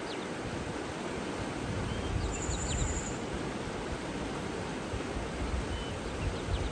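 Running water with low wind rumble, and a few faint short bird chirps; a brief high-pitched trill sounds about two seconds in.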